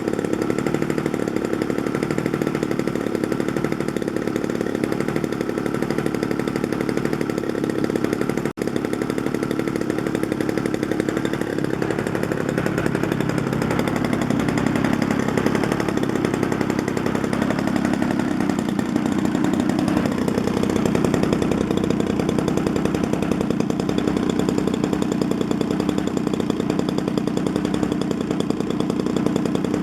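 Desert Aircraft DA-35, a 35cc single-cylinder two-stroke model aircraft engine, running steadily with its pitch shifting a little in the middle, and cutting out for an instant about eight and a half seconds in.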